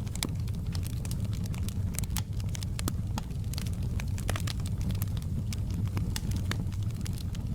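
Wood fire in a fireplace crackling steadily, with many sharp pops and snaps over a low rumble of flame.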